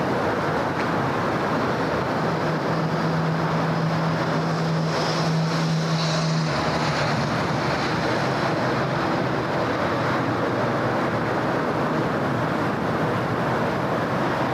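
City street traffic: a steady rush of passing vehicles and tyres on the road, with one vehicle's low engine hum standing out from about two seconds in until about six and a half seconds.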